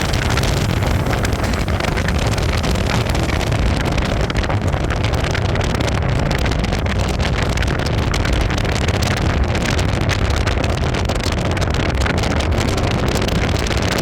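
Loud, steady wind and road noise from a moving vehicle, a rushing sound with a low rumble and crackling buffets on the microphone.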